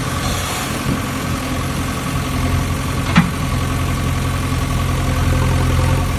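A steady idling engine hum, with a single sharp click about three seconds in.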